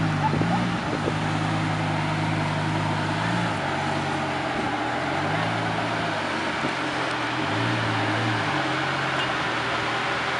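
Lamborghini Gallardo's V10 engine idling low, its pitch rising briefly and settling back about four times as the revs are lifted slightly, over a steady hiss.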